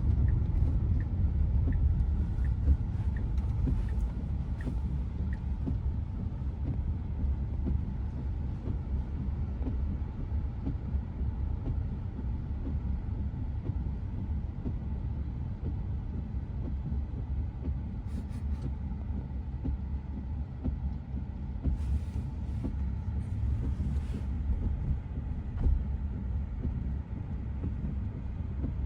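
Steady low rumble of road and tyre noise inside the cabin of a new Tesla Model Y electric car driving on wet roads in pouring rain, with a few faint clicks in the second half.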